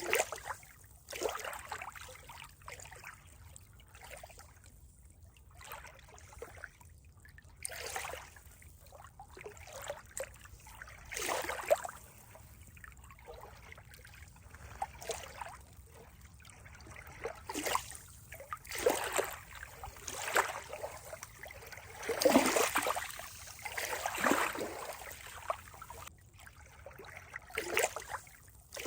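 Running water trickling and splashing in irregular surges a second or two apart over a faint steady hiss, the loudest cluster about two-thirds of the way through.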